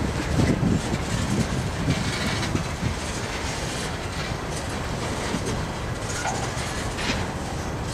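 Freight train of covered hopper cars rolling past: a steady rumble of steel wheels on rail, with occasional sharp clicks as wheels pass over rail joints.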